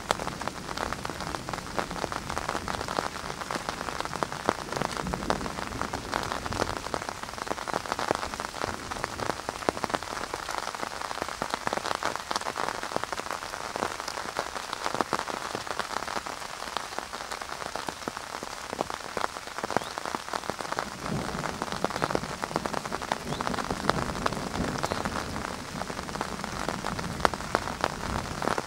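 Steady rain falling, with many individual drops ticking close by. A low rumble swells near the start and again about two-thirds of the way through.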